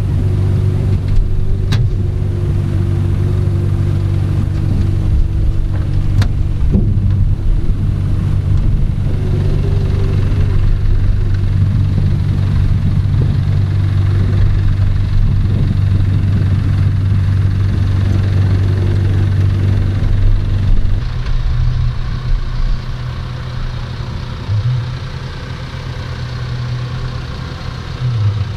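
Cessna 210's six-cylinder piston engine and propeller running steadily, a constant low drone. About twenty seconds in, the sound drops a little and changes pitch.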